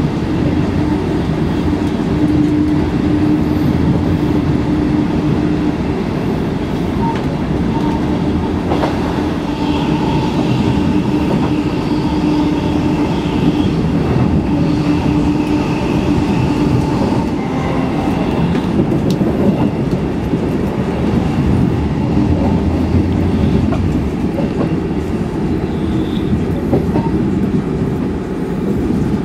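Inside a moving passenger train: a steady running rumble with a low hum and occasional faint clicks from the wheels on the track.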